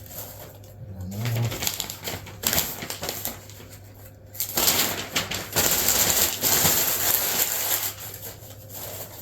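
Newspaper being crumpled and crinkled by hand, in crackling bursts, loudest and longest from about halfway through.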